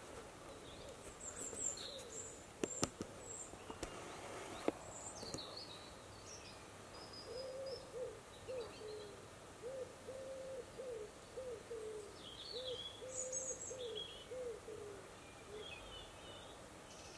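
A bird's low cooing calls, about a dozen short notes in a row from about seven seconds in, with faint high chirps of small birds above them. A few sharp clicks come in the first five seconds.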